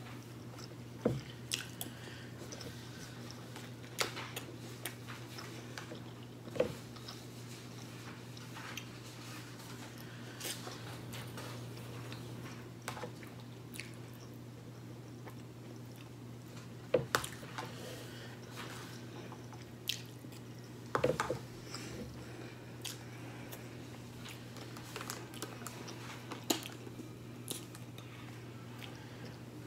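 A person chewing and eating a forkful of rice, corn and smothered pork chop, with occasional sharp clicks of a fork against the plate, over a steady low hum.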